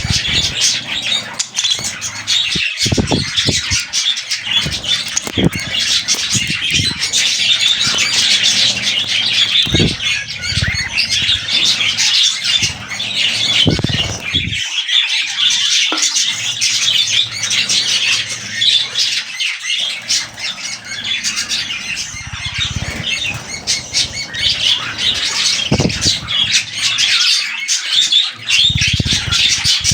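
Budgerigars chattering and squawking without a break, a dense run of chirps and warbles, with short fluttering thumps of wing flapping here and there.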